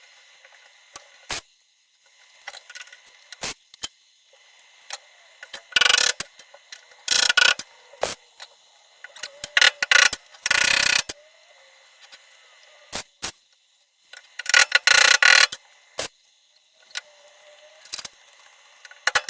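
MIG welder tack-welding a steel body panel: a series of short bursts of arc, each lasting about half a second to a second, with small clicks and knocks between the tacks.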